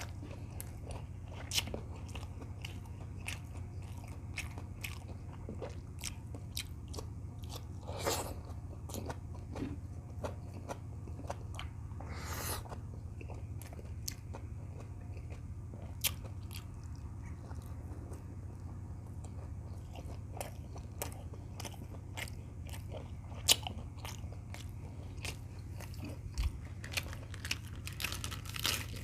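Close-up sounds of a person eating beef tocino with rice: chewing and biting with many short, sharp crunchy clicks, over a steady low hum.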